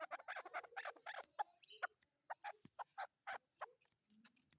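Chukar partridge calling: a quick run of short, sharp notes that slows to spaced single notes, about three a second, and dies away near the end.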